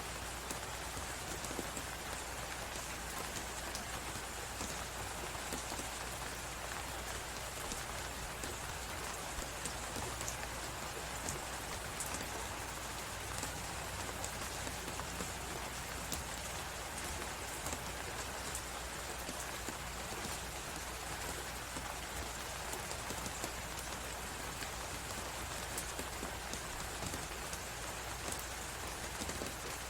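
Steady snowstorm wind hiss with a crackling fireplace: many fine, quick crackles over an unchanging rush, with a low steady rumble underneath.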